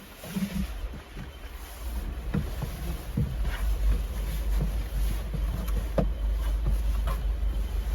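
Storm wind buffeting the microphone with a steady low rumble, with irregular knocks and crunches scattered through it.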